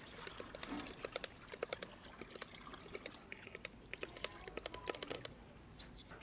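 Faint shampooing: hair being lathered close to the microphone, with irregular small crackles and clicks, several a second.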